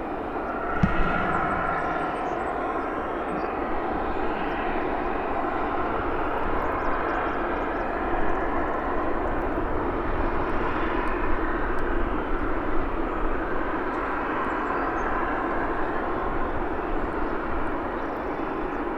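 Airliner engines running as the plane passes: a steady rush of noise with faint whining tones, rising slightly in the middle. A short knock comes about a second in.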